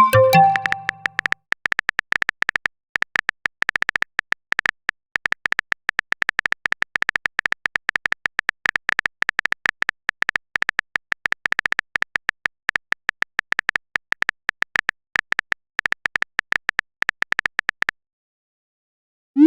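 Rapid clicks of a phone keyboard typing sound effect, many a second, stopping a second or two before the end. A short chime opens it, and a quick rising pop (a message-sent sound) closes it.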